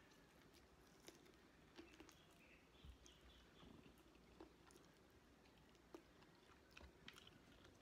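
Faint close chewing and mouth clicks from eating chicken adobo and rice by hand, with small scattered taps and a brief, faint, wavering high chirp about a third of the way in.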